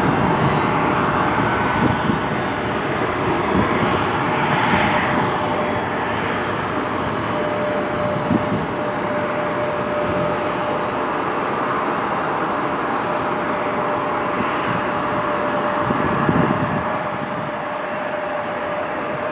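Jet airliner engines running: a steady rush with a steady whine that grows stronger partway through.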